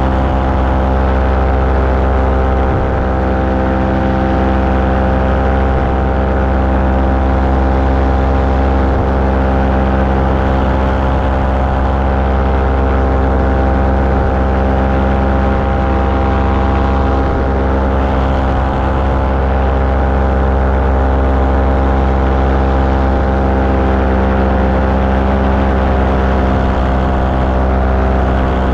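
Small aircraft engine running at a steady cruise setting in flight, a constant drone with no change in pitch.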